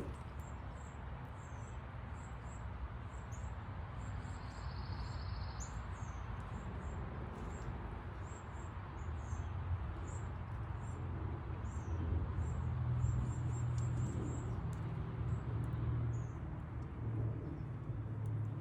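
Small backyard birds chirping, with many short high chirps repeated through the whole stretch, over a low steady rumble that grows louder about twelve seconds in for a few seconds.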